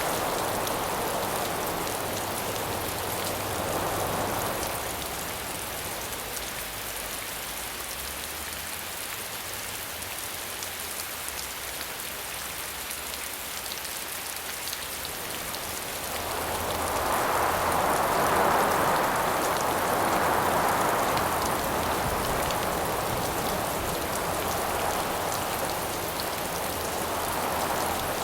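Steady rain hissing, with gusts of wind that swell and fade: one in the first few seconds, and a longer, louder one from a little past halfway.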